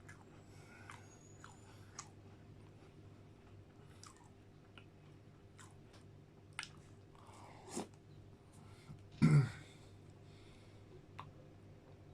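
Close-up chewing and crunching of McVitie's digestive biscuits with McFlurry ice cream, scattered small crunches and mouth clicks over a faint steady hum, with one louder, deeper sound about nine seconds in.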